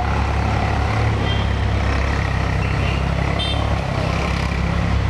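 Diesel locomotive engines of a train hauled by twin EMD WDG4s and an ALCO WDM2, running with a steady low rumble.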